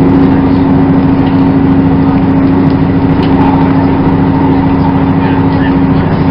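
Steady drone of a Class 158 Express Sprinter's underfloor diesel engine heard on board, one constant low hum with no change in pitch.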